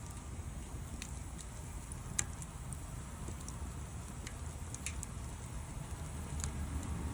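Wood fire crackling: a handful of scattered sharp pops, the loudest about two seconds in, over a low steady rumble.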